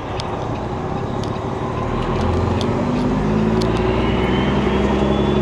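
Diesel semi-truck engine running under way, heard from the cab, getting louder from about two seconds in as it pulls harder.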